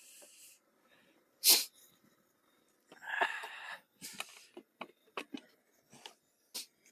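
Cooking utensils knocking and clicking: one sharp knock, a short noisy burst about three seconds in, then a run of light clicks and taps.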